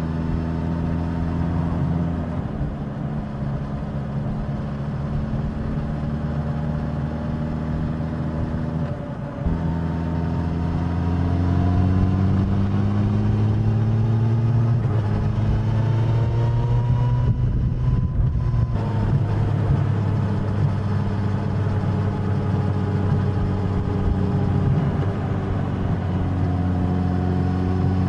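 Suzuki GSX-S1000's inline-four engine running under way on the road. A brief dip about nine seconds in, then the engine note rises slowly as the bike accelerates and holds steady for the last ten seconds.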